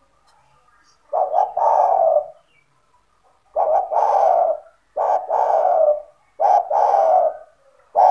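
Spotted dove (tekukur) cooing its song: four phrases about a second and a half apart, each a short note run straight into a longer one.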